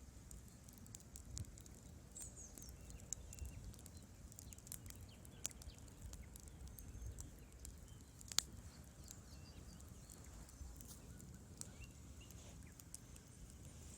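Wood fire in a fireplace crackling: faint scattered pops and snaps over a low steady rumble, with one sharp pop about eight seconds in.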